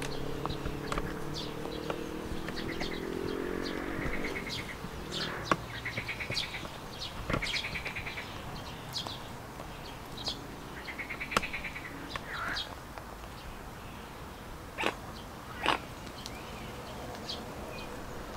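Birds calling: short high chirps and peeps repeat throughout, with a few pulsed, trilling calls in the middle and two sharper, louder calls near the end. A low pitched hum fades out over the first few seconds.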